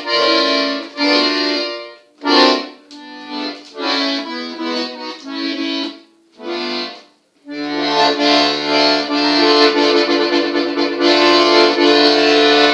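Accordion playing the instrumental introduction to a song. It plays short phrases of held chords with brief breaks, then from about halfway a long unbroken run of chords over bass notes.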